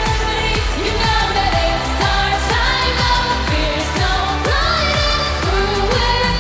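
K-pop song: a sung vocal melody with gliding, held notes over a dense synth backing and a steady kick-drum beat, about two beats a second.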